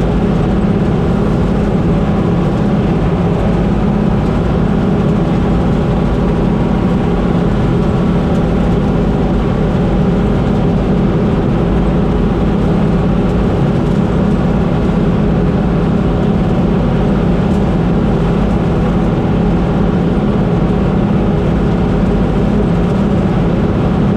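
Combine harvester running steadily at work, its engine and machinery giving a loud, even drone.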